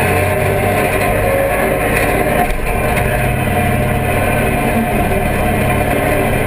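A vehicle engine running steadily, with no revving.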